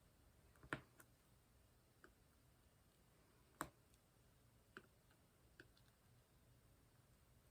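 Near silence broken by about six faint, sharp clicks and taps of diamond-painting work: a drill pen setting small resin drills onto the canvas. The two loudest clicks fall about a second in and at about three and a half seconds.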